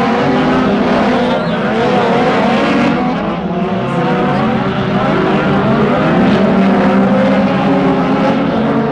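Trophy truck's engine running loud, its pitch rising and falling as it revs, with a dip about three seconds in and a rise in pitch soon after.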